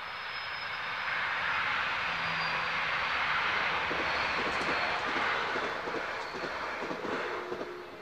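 Diesel passenger train passing at speed, a Greater Anglia Stadler FLIRT bi-mode unit (Class 755): a broad rush of wheel and engine noise that builds about a second in, holds, then fades as the train moves away.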